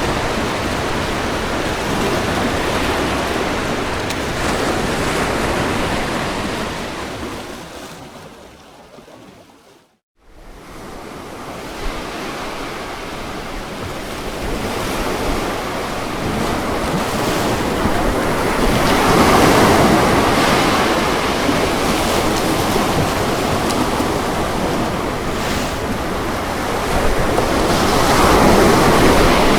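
Ocean waves washing in, a steady rushing surf with louder surges about two-thirds of the way through and again near the end. About a third of the way in the sound fades briefly to silence and fades back up.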